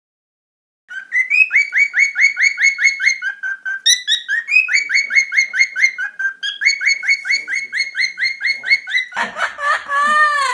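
Parrots chirping: fast runs of short, repeated high chirps, about five a second, beginning about a second in. Near the end a louder, lower, arching call breaks in.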